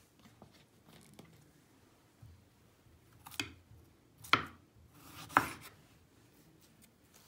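A knife chopping food on a cutting board: a few light taps, then three sharper cuts about a second apart.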